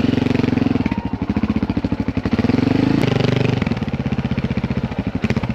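Dirt bike engine idling with an even, fast pulse, rising briefly in a small rev about halfway through, then settling back.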